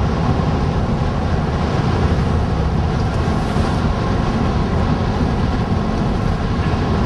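Steady road and engine rumble inside a moving chase van's cabin.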